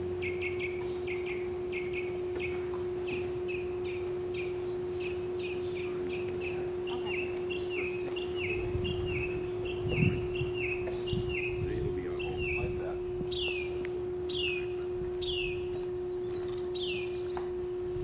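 A bird singing a long series of short, downward-sliding whistled notes, about two a second at first, then slower and starting higher near the end, over a steady low hum. A brief low thump about ten seconds in.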